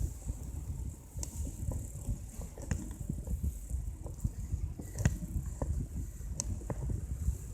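Mountain bike riding on a road: a steady low rumble of wind and tyres on the microphone, with irregular sharp clicks and rattles from the bike.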